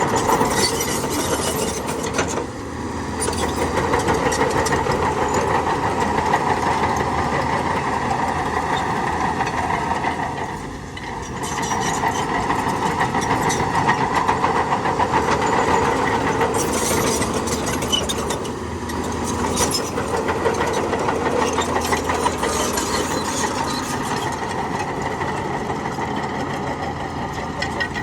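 Heavy diesel earthmoving machinery running steadily under load, its level briefly dipping three times.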